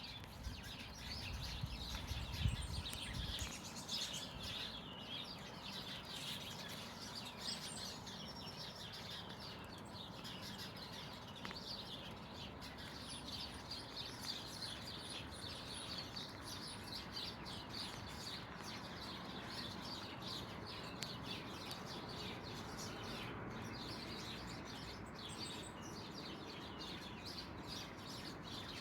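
A chorus of garden songbirds singing and chirping, many short calls and trills overlapping without a break. A brief low rumble sounds a couple of seconds in.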